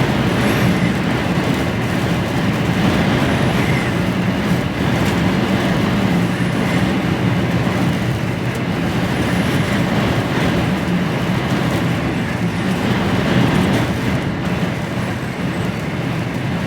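Steady in-cab drone of an HGV lorry driving at speed: engine hum and tyre and road noise, with storm wind on the cab.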